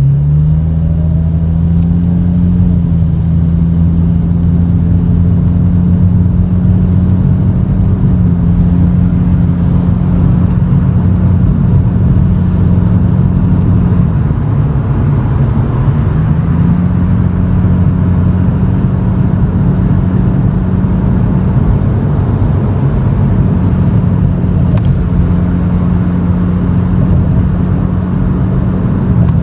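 Exhaust drone of a Toyota Chaser GX100's 2.0-litre straight-six through an aftermarket Reinhardt bullet muffler with silencer insert, heard inside the cabin while cruising at low speed. The engine note holds steady, with a slight dip in engine speed about halfway through and again later.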